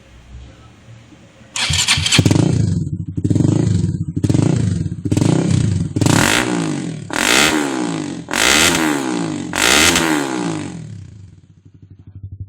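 Honda Sonic 150R's single-cylinder 150 cc engine breathing through an R9 aftermarket exhaust, starting up about a second and a half in and then revved in about eight throttle blips, each rising and falling in pitch. Near the end it drops back toward idle.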